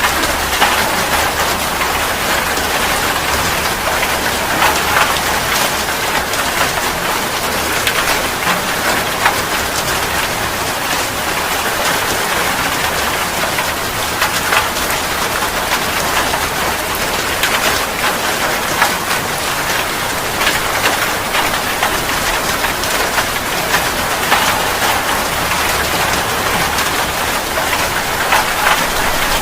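Steady heavy rain falling on a surface: a dense, even hiss of rain with many individual drops ticking out of it, and a low rumble that comes and goes underneath.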